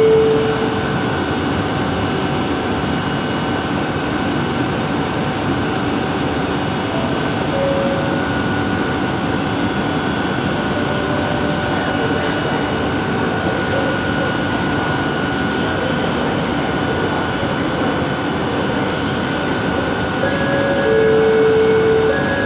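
Bombardier Innovia ART 200 metro train running along the track, heard from inside the car: a steady rumble with several held electric whine tones from its linear induction motor drive. Near the end the tones grow stronger and the sound gets a little louder.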